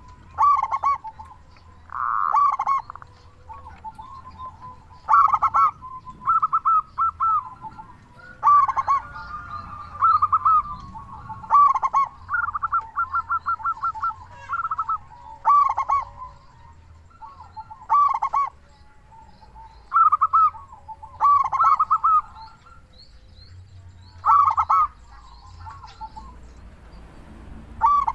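Zebra dove (perkutut) song: loud phrases of short, quick coos repeated every one to three seconds, some running into fast strings of notes, in the lively full-voiced calling kept to get other perkutut to start singing.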